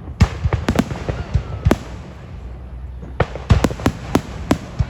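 Fireworks display: shells bursting in a rapid string of sharp bangs, coming in clusters about a second apart, with the loudest run of bangs in the second half.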